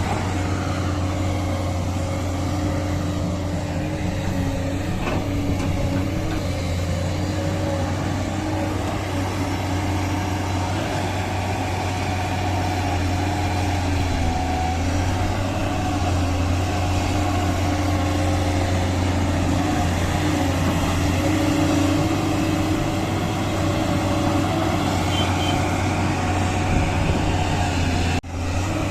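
Diesel engines of earthmoving machines running steadily, a low drone whose pitch rises and falls slightly as they work, with a brief break near the end.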